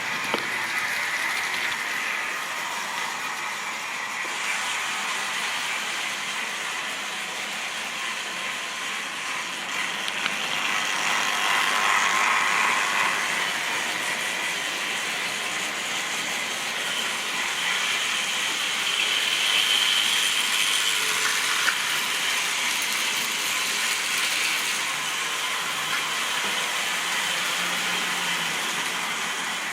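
Model railway train running on the track: a small electric motor whirs and the wheels rattle over the rails. It swells louder twice as it passes close, once near the middle and again about two-thirds of the way through.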